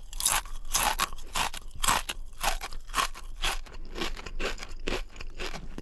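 Crunchy chewing of raw mango, a crisp crunch about three times a second.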